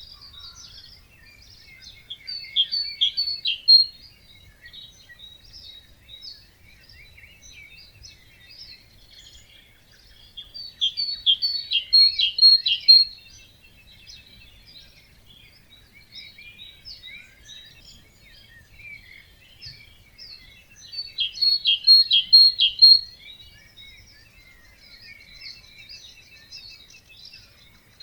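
Wetland dawn chorus of many birds singing and chirping. One nearby bird repeats a loud song phrase of about two seconds roughly every nine seconds, three times.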